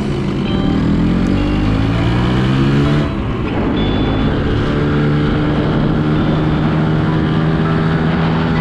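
Suzuki X4 motorcycle engine pulling hard under acceleration, its pitch rising for about three seconds. It drops at a gear change about three seconds in, then climbs again and settles into a steady drone as the bike cruises in the next gear.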